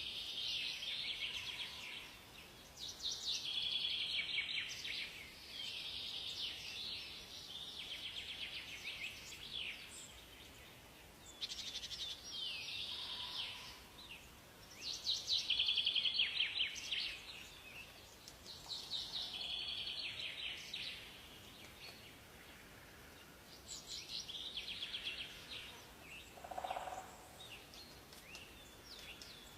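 Songbirds singing in a forest: high, rapid trilling song phrases, each a second or two long, follow one another every few seconds over a faint steady hiss. A short, lower call comes a few seconds before the end.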